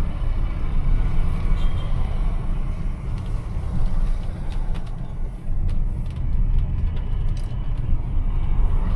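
Car driving in heavy rain: steady low engine and road rumble, with scattered light ticks through the second half.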